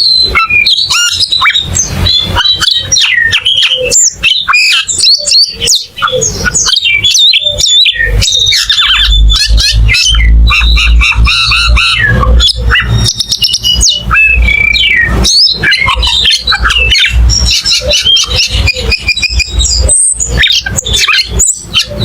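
A cucak keling singing in full, unbroken song: a rapid, varied run of whistles, chirps and harsh squawking notes. A low rumble runs underneath through the middle part.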